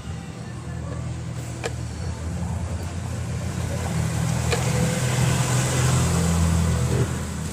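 A vehicle engine running steadily, its low hum growing louder towards the middle and easing near the end, with a few faint clicks.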